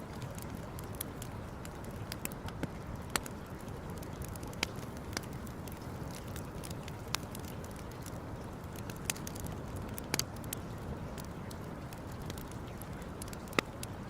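Wood campfire crackling: sharp, irregular pops and snaps over a steady low rush, with two louder pops about three seconds in and near the end.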